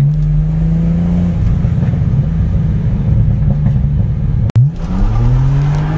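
BMW 635i CSi straight-six engine heard from inside the cabin on the move: a steady engine note for about a second, then fading to a rough rumble. After a brief cut-out about four and a half seconds in, the note rises as the engine revs up, then holds steady.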